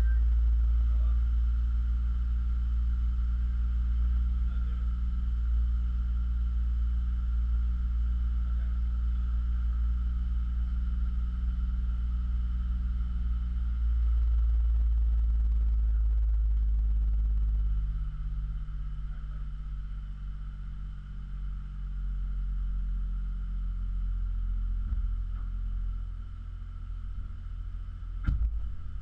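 Ford Fusion Sport's 2.7-litre twin-turbo V6 running steadily at idle through a Magnaflow axle-back exhaust, a deep, even drone. It gets somewhat quieter about eighteen seconds in, and there is a single sharp click near the end.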